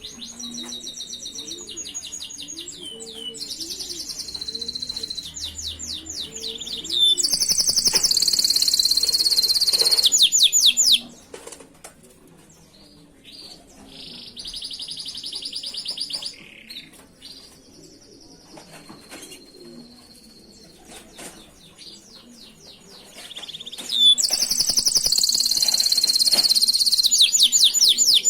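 Domestic canary singing long phrases of fast, high trills and rolls, loudest from about seven to eleven seconds in and again over the last four seconds, with quieter phrases between. A dove coos softly and repeatedly in the background during the first ten seconds.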